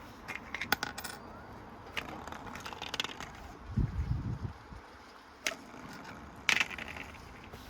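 Precept washing machine running badly out of balance with bricks inside, knocking and rattling: a quick cluster of sharp knocks in the first second, single knocks every second or so after, and a heavier low thump about four seconds in.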